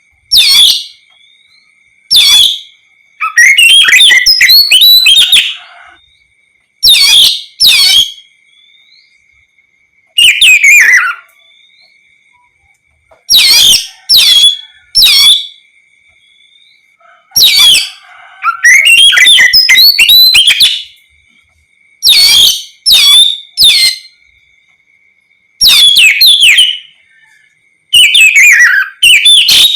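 Oriental magpie-robin singing loudly in full song: a run of varied, fast whistled and warbling phrases, each a second or two long, with short pauses between. A faint steady high tone runs underneath.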